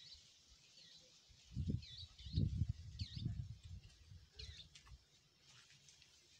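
Small birds chirping: short, quick chirps, about five of them spread over the few seconds. A few low, muffled rumbles come in the first half and are the loudest thing heard.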